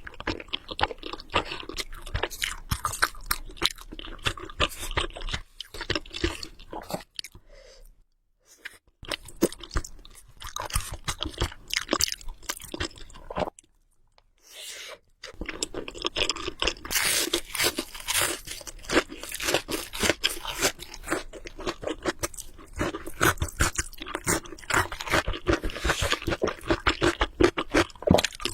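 Close-miked chewing of spicy carbonara Buldak instant noodles: a rapid run of wet, crackly mouth sounds, stopping briefly twice.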